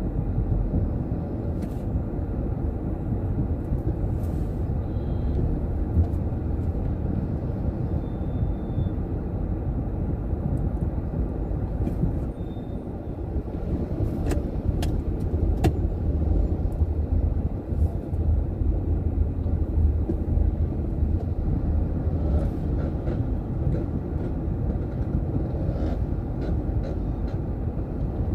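Car driving along city streets: steady low road and engine rumble, with a few faint short high tones and a brief run of sharp clicks about halfway through.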